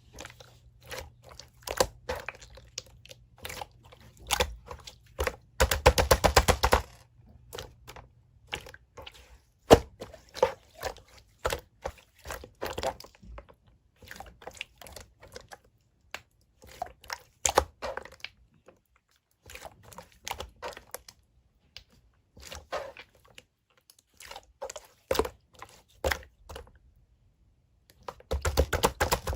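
Slime being squeezed and pressed by hand, making irregular sticky clicks, pops and crackles as trapped air bursts. A dense run of crackling comes about six seconds in, and another near the end.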